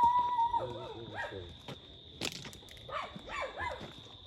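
A dog whining and giving a few short yelping barks, with a drawn-out whine at the start, over a steady high-pitched hum.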